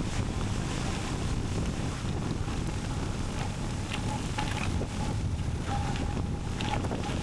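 Wind buffeting the microphone of a moving bicycle, a steady low rumbling rush.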